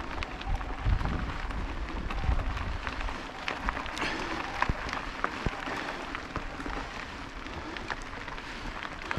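Fat-tyre bike rolling over a forest trail: a steady crunch with scattered sharp clicks and snaps from twigs and debris under the tyres. Wind rumbles on the microphone for the first three seconds or so.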